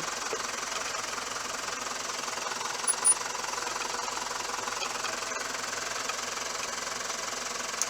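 Mitsubishi Fuso FE145's 4.9-litre turbo diesel engine idling steadily just after starting up.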